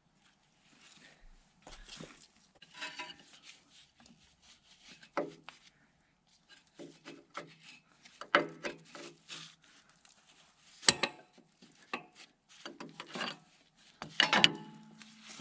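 Hand tools and metal parts being handled during hydraulic line work: irregular clinks, knocks and scraping, with several sharper knocks in the second half.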